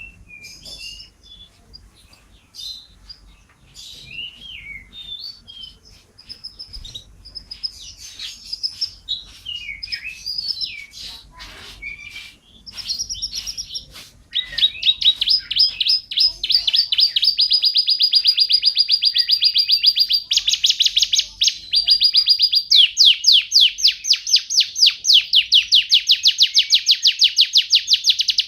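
A bird singing: varied short chirps and whistles, then about halfway through a loud, fast trill of rapidly repeated notes that keeps going.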